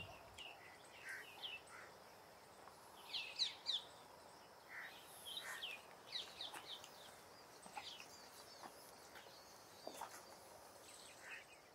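Birds chirping faintly: short, high calls scattered every second or so, the loudest few about three seconds in, over a faint background hiss.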